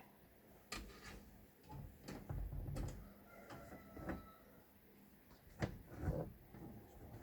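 Irregular knocks and clicks of metal being handled, about a dozen of them. A couple of duller thumps and a brief faint ringing tone come near the middle.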